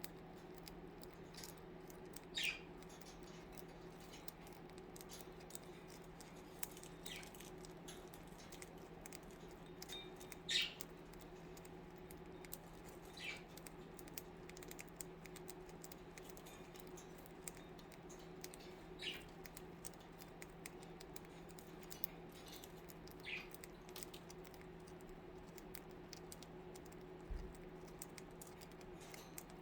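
Budgies pecking and cracking seed from a treat: faint, quick small clicks, with a handful of short budgie chirps a few seconds apart, over a steady low hum.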